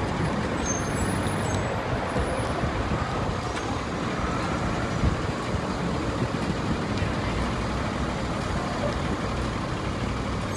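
Steady traffic noise of vehicles passing on a busy city avenue, a continuous low rumble with road hiss. There is one short knock about five seconds in.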